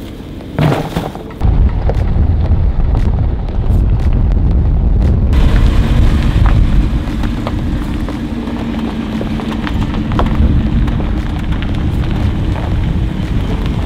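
Jeep Wrangler engine running as it pulls away across dirt, a loud, steady deep rumble that starts about a second and a half in.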